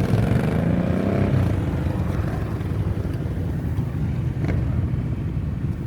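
Motorcycle engines running, a low pulsing rumble, with one engine note rising in pitch over the first second or so.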